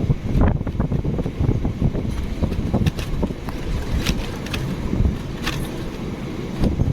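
A train hauled by a DC-class diesel-electric locomotive rumbling past, with wind buffeting the microphone and a few sharp clanks scattered through it.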